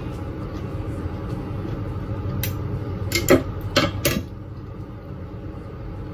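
A steady low hum, with a handful of short smacks and clicks about halfway through from chewing a mouthful of braised beef shank.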